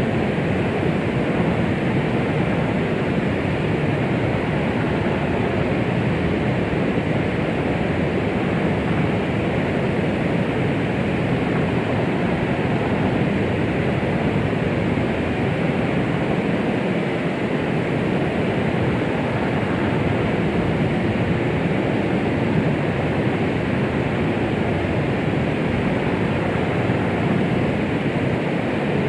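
Steady white-noise track, a constant even hiss weighted toward the low and middle pitches, with no pulse or change, of the kind played to soothe a baby to sleep.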